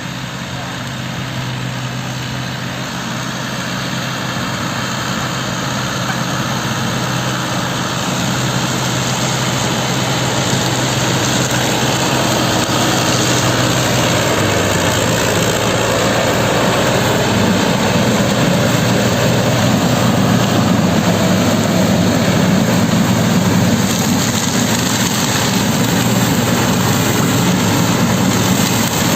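Tractor engine running steadily while driving a sugarcane trash mulcher that shreds dry cane leaves. The sound grows slowly louder over the first ten seconds or so, and the engine note shifts about halfway through.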